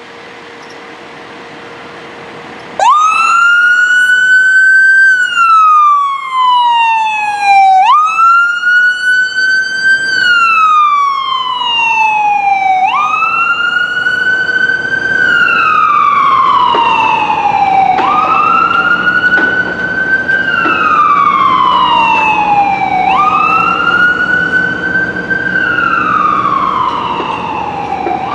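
Fire department emergency vehicle siren switching on suddenly about three seconds in and wailing in long cycles about five seconds each, each sweep rising quickly and then falling slowly. A low vehicle engine hum sounds under it in the later part.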